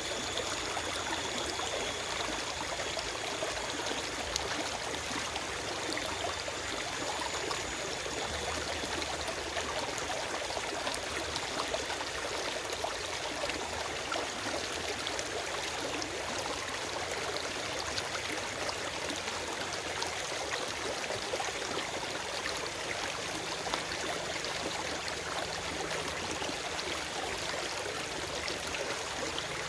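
Forest stream running over rocks, a steady, even rush and babble of water.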